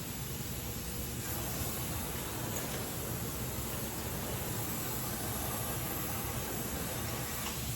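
Gas welding torch flame hissing steadily while aluminium is flame-welded.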